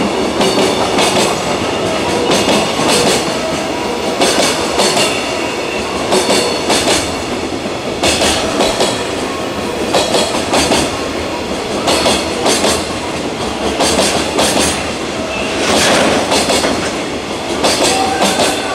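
Freight train wagons running past, their wheels clacking over rail joints in pairs about every two seconds over a steady rolling rumble.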